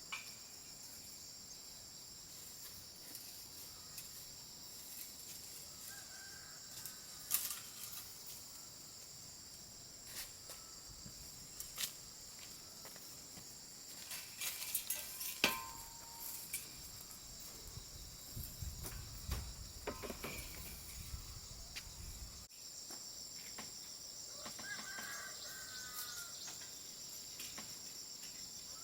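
Steady high insect chorus of crickets outdoors, with a few sharp clicks or snaps scattered through, the loudest about seven and fifteen seconds in. Short bird chirps come twice, and a low rumble runs for a few seconds past the middle.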